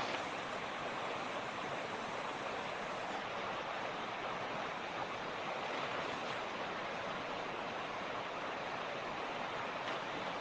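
Mountain creek rushing over rocks: a steady, even wash of running water with no breaks.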